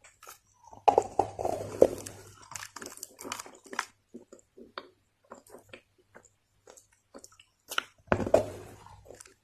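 Chunks of Chinese loess being bitten and chewed with soft crunches: a crunchy bite about a second in, then scattered crackling chews, and a second bite near the end.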